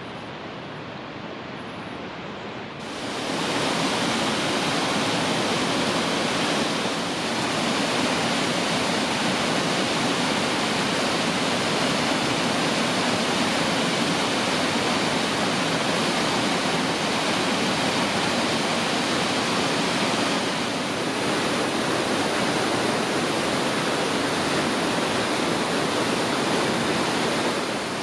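Waterfall at Nunobiki Falls: a steady, dense rush of falling water. It is quieter for the first few seconds, then comes in suddenly much louder about three seconds in and holds.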